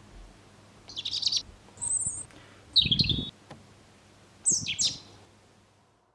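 Small birds chirping in four short bursts of quick high notes, about a second apart, with a low thump under the third burst.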